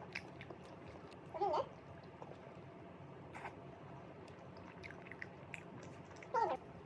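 Two short, wavering voice-like calls, one about a second and a half in and one near the end, over faint clicks and small eating noises.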